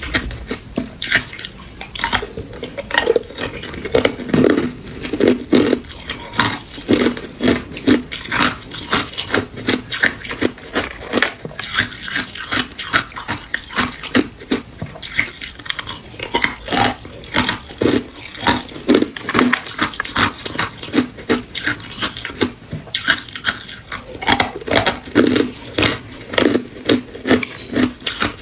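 Hard ice cubes being bitten and chewed close up: a fast, continuous run of sharp crunching cracks, several a second.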